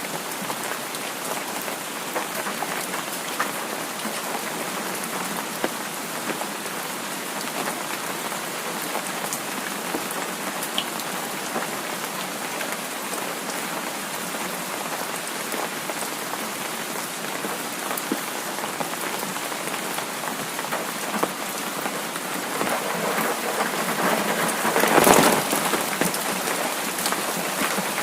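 Heavy rain falling steadily, with many small drop ticks throughout. Near the end the rain noise swells louder for a few seconds, then eases back.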